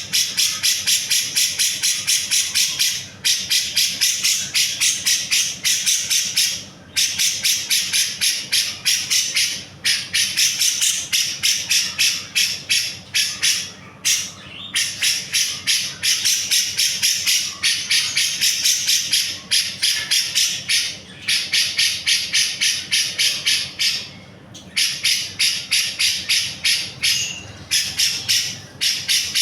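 Cucak jenggot (grey-cheeked bulbul) singing a fast, harsh, rasping chatter of about three to four notes a second, in long runs broken by a few short pauses.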